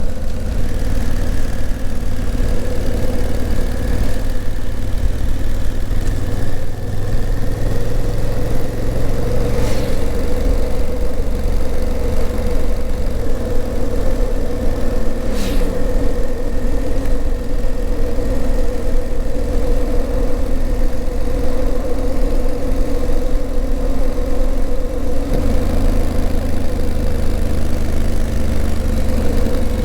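Honda CRF1000L Africa Twin's parallel-twin engine running steadily on the road, heard onboard. The engine note steps to a new pitch about halfway through and again near the end.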